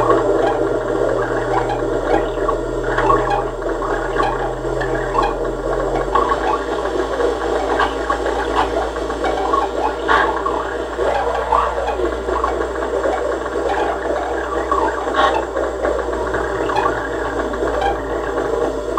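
Experimental electronic noise from synthesizers and effects: a steady low drone that changes pitch about six seconds in, under a dense layer of crackling and clicking.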